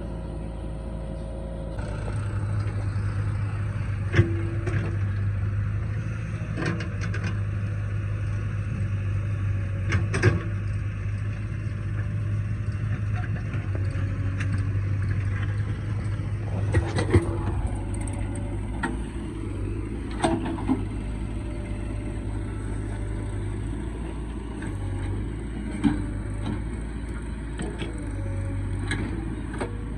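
Heavy diesel engine of a backhoe loader running steadily under load, getting louder about two seconds in. Sharp metallic clanks come every few seconds.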